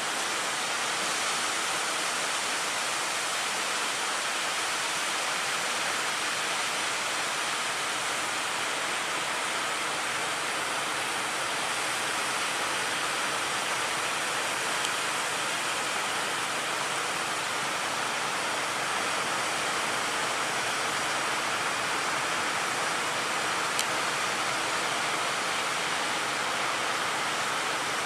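Steady, even roar of surf and rushing water, with no engine or voice standing out.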